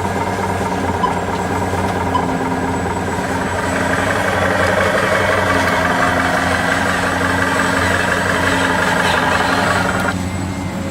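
Steady engine-like running sound, as of a heavy vehicle idling, with a low hum. It grows busier and a little louder about four seconds in and eases off near the end.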